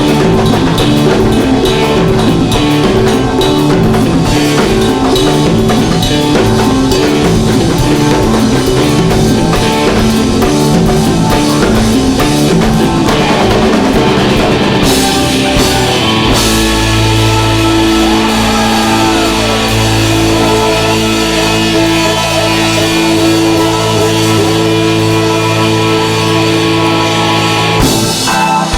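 Live rock band playing with drums, guitar and Hammond organ. About halfway through it settles onto a long held closing chord, which cuts off near the end.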